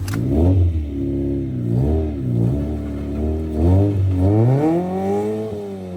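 1994 Honda Civic EG hatchback's four-cylinder engine revving up and down about four times, the last rev the longest, as it tries to drive out of the mud with its tractor-tread tires spinning.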